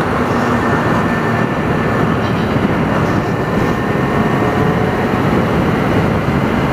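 Kawasaki Ninja 300 motorcycle being ridden at steady speed: the parallel-twin engine runs underneath a steady rush of wind and road noise.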